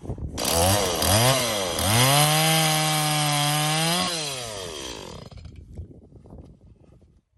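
Two-stroke chainsaw revved in three quick throttle blips, then held at a steady high rev for about two seconds before the throttle is released and the sound falls in pitch and fades out.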